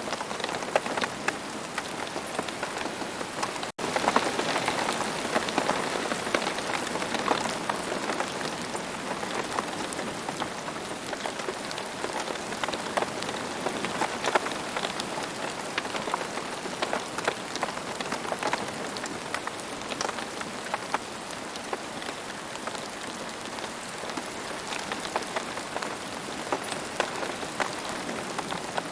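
Steady rain falling, with many individual drop hits heard through the even hiss. A split-second gap breaks the sound about four seconds in.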